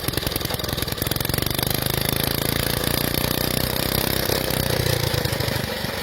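Motorcycle engine idling, a fast, steady run of firing pulses.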